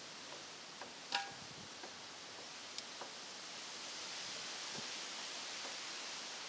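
Steady hiss with a few light clicks, one of them a short metallic clink about a second in.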